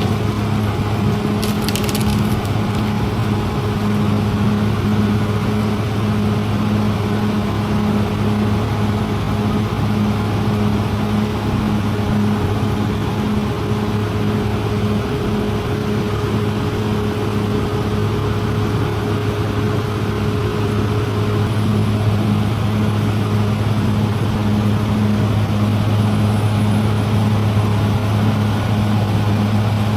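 Bulldozer's diesel engine running steadily under a constant low hum, with a dense rough noise over it from the machine working; a brief sharp click about two seconds in.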